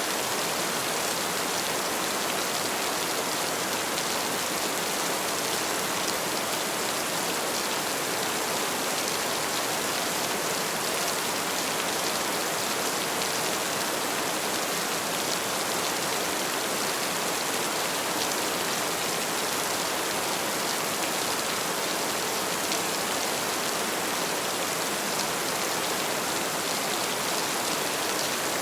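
Heavy rain falling steadily, a dense even hiss of many drops pattering on surfaces, with no change in strength.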